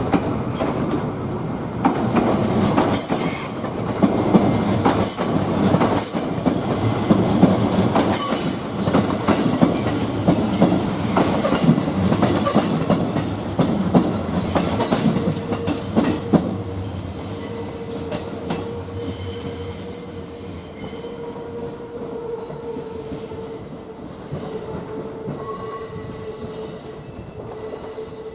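JR East 211 series 3000-number electric multiple unit running slowly out of the depot, its wheels clicking over rail joints and pointwork with intermittent high wheel squeal. The sound fades after about 16 s, leaving a steady hum.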